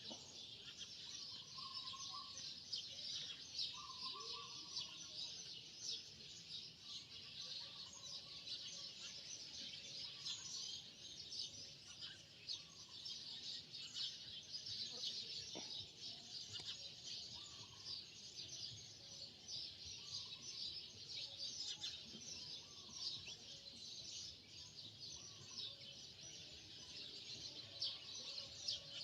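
Faint, continuous chorus of chirping birds, with scattered lower calls and a single faint click about halfway through.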